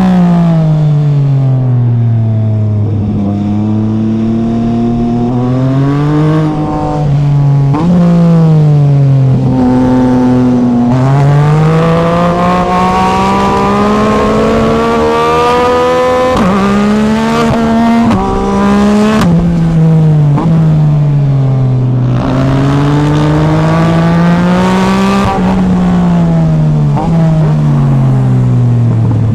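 Yamaha MT-09 SP's three-cylinder engine under way. Its revs climb and then drop sharply several times as it shifts up through the gears, with slower falls where it eases off.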